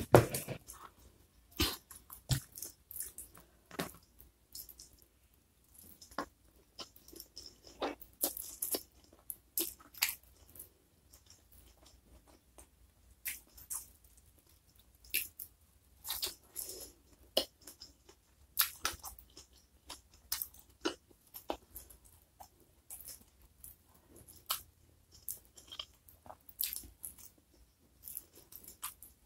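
Close-miked eating sounds: irregular wet chewing and crisp crunches from a mouthful of rice, fried chicken and sambal with petai and jengkol beans, eaten by hand. A single thump right at the start is the loudest sound.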